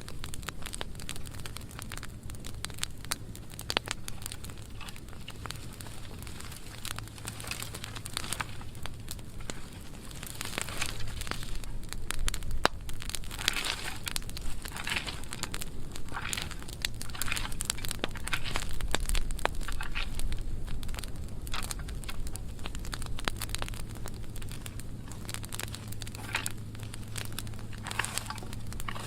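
Burn pile of dry pruned branches burning, with dense irregular crackling and popping that grows louder about ten seconds in and eases again near the end.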